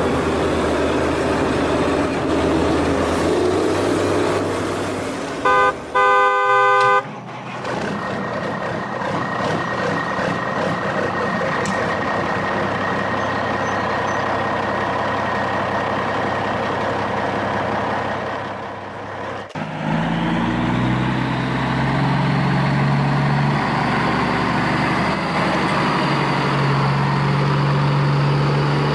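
Vehicle horn sounding a short toot and then a longer blast about six seconds in, over steady engine and motor running noise. About twenty seconds in, an engine note rises in pitch and then holds steady.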